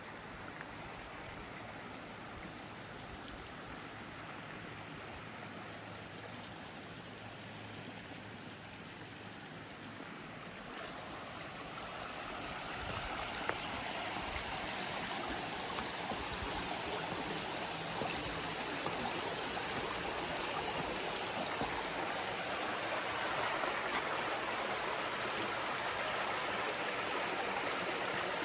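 Flowing water rushing steadily, as from a stream, growing louder about twelve seconds in.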